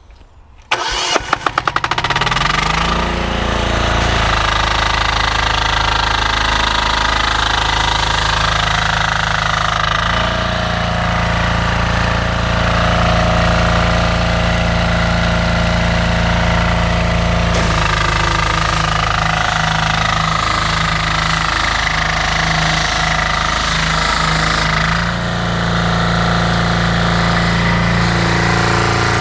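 A 10 hp Loncin diesel engine on a pressure washer is cranked with a few quick strokes, catches about two seconds in, then runs steadily. Its running note shifts a few times.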